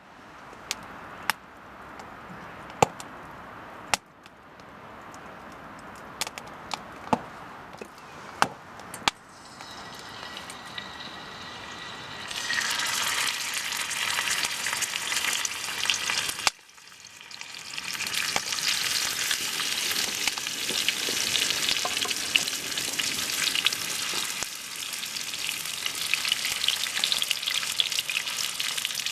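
Ajillo sizzling in hot oil in a cast-iron skillet over a campfire. Several sharp knocks and clicks come first; the sizzle swells loud about twelve seconds in, breaks off briefly, then builds back up.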